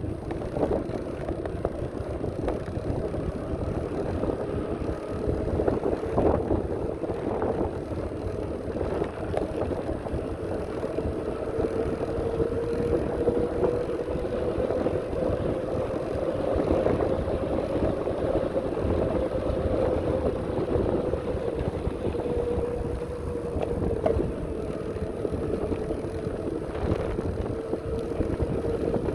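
Bicycle in motion with wind buffeting the microphone, a low rumble and a steady whine that slowly rises and falls a little in pitch.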